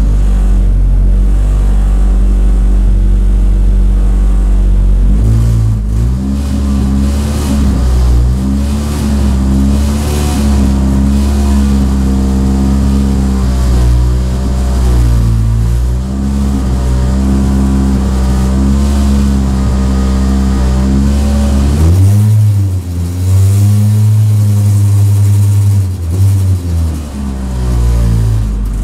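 Hyundai i30 N TCR race car's turbocharged 2.0-litre four-cylinder engine running at a standstill, heard from inside the stripped cabin. Its note is steady at first and then wavers up and down from about six seconds in.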